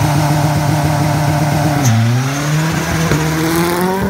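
Vauxhall C20NE 8-valve four-cylinder rally engine in a Mk2 Ford Escort under hard acceleration, held at high revs. About two seconds in, a gear change drops the revs, and they then climb steadily again.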